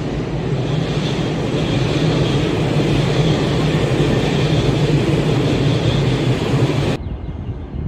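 E257-2000 series electric train pulling into the platform, a steady rumble of motors and wheels on the rails that grows louder as it nears. The sound cuts off abruptly about seven seconds in.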